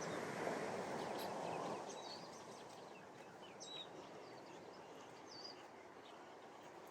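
Ocean surf washing onto a sandy beach, louder for the first couple of seconds and then easing to a softer wash, with small birds chirping over it.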